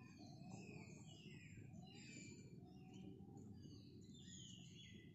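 Several birds chirping and calling faintly, many short sliding calls overlapping one another, over a low steady background rumble.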